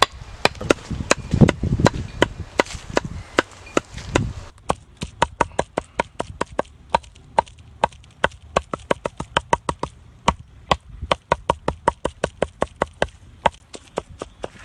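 A knife chopping boneless chicken into mince on a board, with rapid, even strokes. About four seconds in, the chopping gets quicker and crisper, at about four to five strokes a second.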